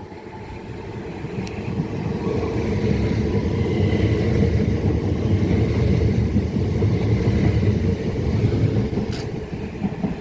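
Southeastern Class 395 high-speed electric train, two units coupled, pulling away and running past. A low rumble builds over the first few seconds and holds steady, with a faint high whine over it.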